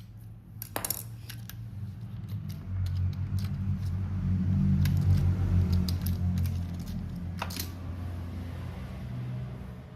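Model train rolling past on the track: a low rumble of the running wheels and motor that swells to a peak about halfway through and then fades, with scattered sharp clicks of wheels over the rail joints.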